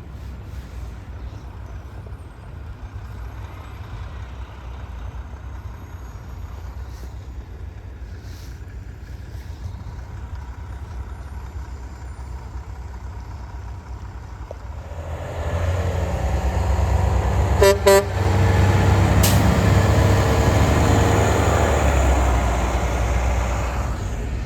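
A snowplow truck's engine rumbles faintly, then grows loud as the truck comes close and passes, with a brief horn toot about two-thirds of the way in. The loud passing noise fades toward the end.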